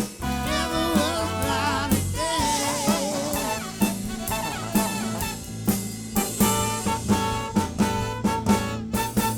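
Live soul band playing an up-tempo song on drum kit and band instruments; in the second half it moves into sustained chords with regularly accented drum hits, typical of a song's closing bars.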